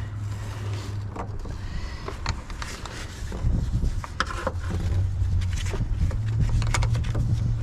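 Irregular clicks and knocks of car parts and tools being handled and fitted, over a steady low hum.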